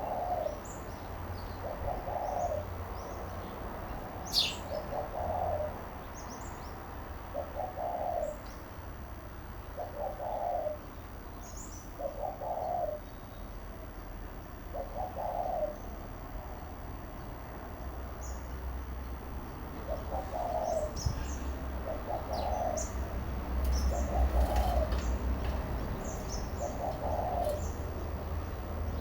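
A dove cooing: a low call repeated about every two and a half seconds, with a break near the middle. Faint high chirps of house sparrows come in now and then over it.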